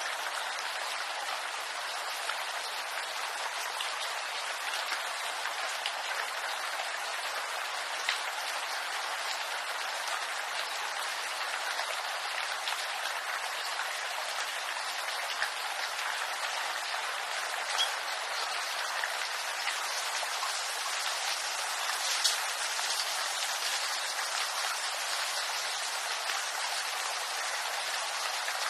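Steady rain falling on bamboo foliage: an even hiss with scattered louder drop strikes, a few standing out, one of them about 22 seconds in.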